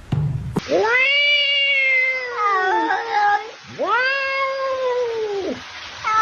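A domestic cat giving two long, drawn-out meows, each rising at the start, holding, then sliding down at the end.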